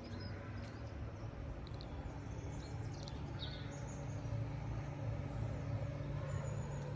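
Outdoor ambience: a steady low hum with a few short bird chirps, a cluster about two to three seconds in and another near the end.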